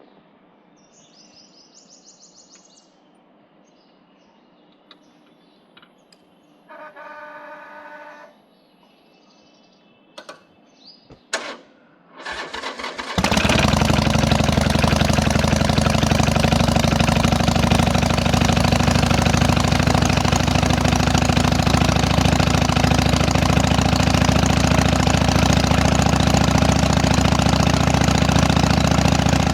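Harley-Davidson Iron 883's air-cooled V-twin with Vance & Hines exhaust being cold-started. After a quiet spell with a short hum and a few clicks, the starter cranks briefly about twelve seconds in. The engine then catches and runs loud and steady at a cold idle.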